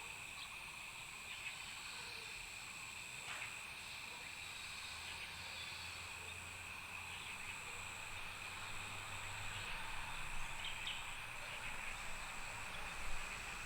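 Outdoor ambience of steady insect drone: a continuous high tone with a thinner, higher one that dips briefly at an even beat under a second apart. A low engine-like rumble comes in around the middle and grows near the end.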